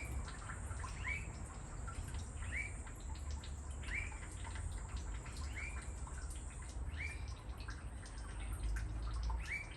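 Water dripping steadily from the draining engine cooling system, one plink about every second and a half.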